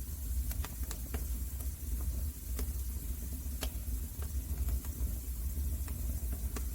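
Wood fire in a fireplace crackling: scattered sharp pops and snaps, one louder pop about three and a half seconds in, over a steady low rumble of the flames.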